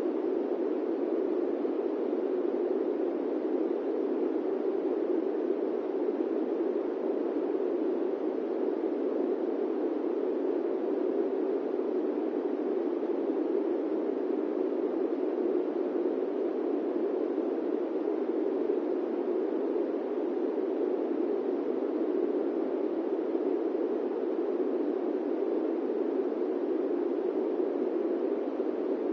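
Steady airplane-cabin white noise: an even, unbroken rushing hiss, strongest in the low-middle range, with no changes or separate events.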